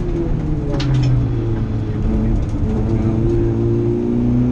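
Rally Nissan Micra's four-cylinder engine heard from inside the cabin. It drops to a lower note about a second in, then pulls on with the revs climbing slowly. A brief spatter of clicks comes at the drop.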